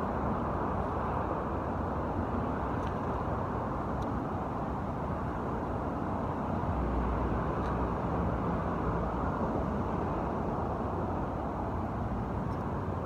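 Steady road-traffic noise, an even rumble of passing cars with no single vehicle standing out.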